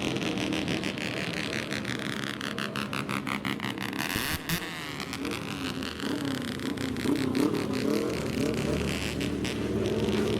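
Modified old car's engine and exhaust running with a rapid, pulsing note as the car passes by about four seconds in. After that the engine revs rise and fall.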